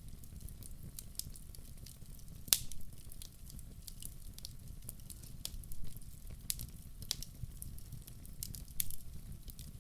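Wood fire crackling, with irregular sharp pops, the loudest about two and a half seconds in, over a steady low rumble.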